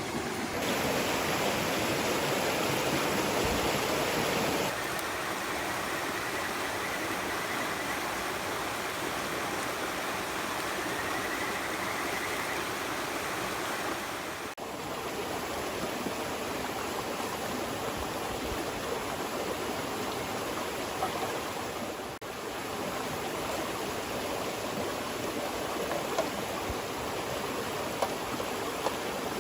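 Clear stream flowing, a steady rushing of water that gets abruptly louder or softer a few times, loudest in the first few seconds.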